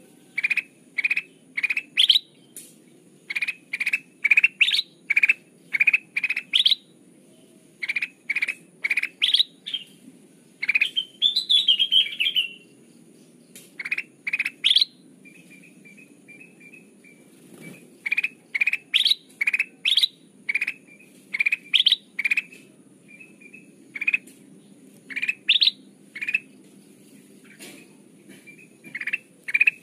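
Kutilang emas, a bulbul, singing: runs of short, clear, rising whistled notes in quick succession with short pauses between runs, and a brief rapid chattering phrase about eleven seconds in.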